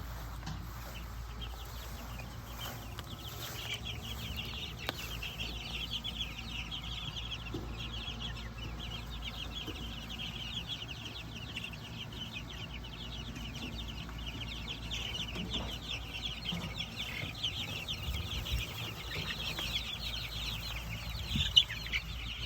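A flock of week-and-a-half-old chicks, Cornish cross meat birds and Rhode Island Red cockerels, peeping in a dense, continuous chorus of short high cheeps that grows louder about three seconds in.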